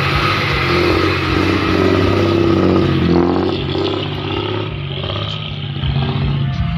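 Diesel engine of a Hino six-wheel dump truck running, its pitch rising for a couple of seconds and dropping back about three seconds in.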